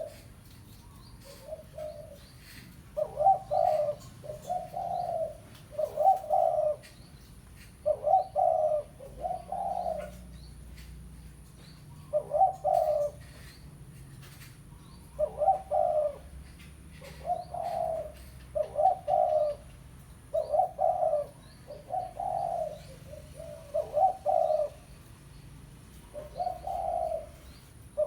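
Spotted dove cooing over and over, short low coos in twos and threes with brief pauses between phrases: a tekukur lure call used to draw in wild doves.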